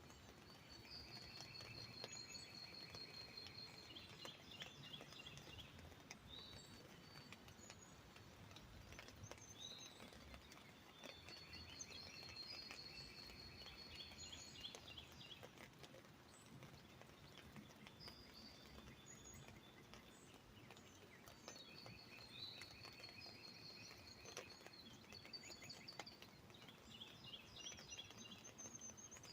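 Songbirds singing faintly, a trilled phrase of rapidly repeated notes coming back roughly every ten seconds, over a faint patter of drops on an umbrella.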